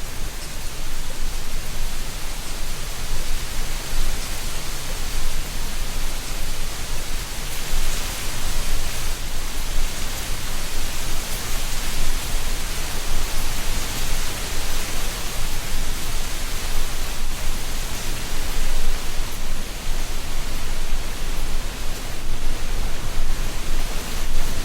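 Autumn wind blowing through a tree canopy, rustling dry leaves in a steady hiss that swells and eases slightly.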